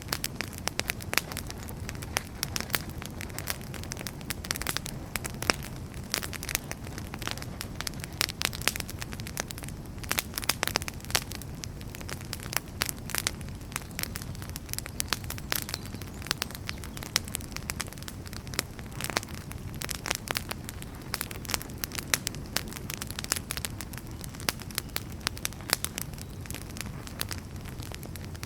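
Wood fire burning, with frequent irregular sharp crackles and pops over a steady low rush of flame.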